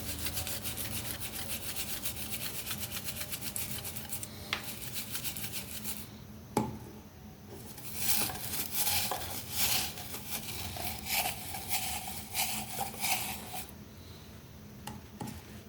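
Hand rubbing strokes on the surface of an old object being restored. They start fast and even, then a single sharp click comes, then slower, louder strokes that set up a faint ringing note before they ease off near the end.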